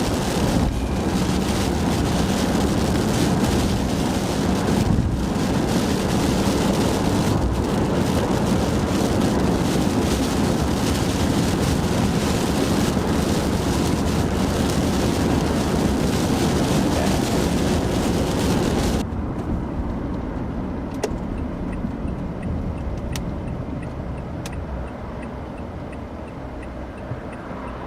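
A car driving at highway speed, with a steady rush of road and tyre noise. About two-thirds of the way in it drops off abruptly, leaving a quieter low rumble with a few faint clicks.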